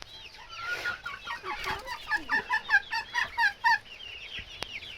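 Bantam chickens clucking, with a quick, regular run of calls from about a second and a half in to nearly four seconds.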